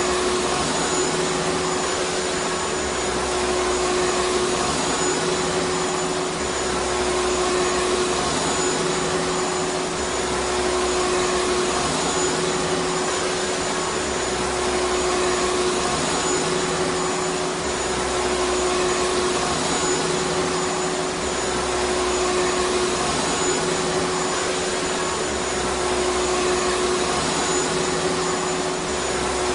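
Vacuum cleaner motor running steadily: a constant rushing of air with a steady hum and a thin high whine over it.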